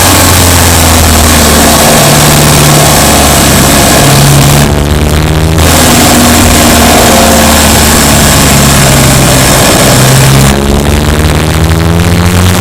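Subaru Impreza Sport's flat-four engine running on the move, its pitch rising and falling with throttle. Twice the hissy road noise briefly drops away while the engine note climbs, about five seconds in and near the end.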